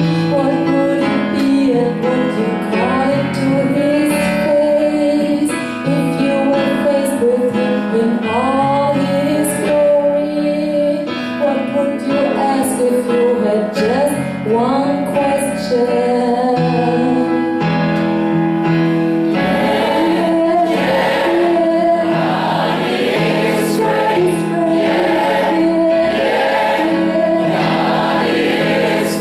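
A choir singing with keyboard accompaniment, female voices carrying the melody; the sound grows fuller about two-thirds of the way through.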